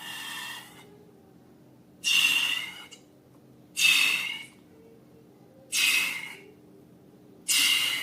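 Four short hissing bursts of air, about two seconds apart. Each starts suddenly and fades away within a second.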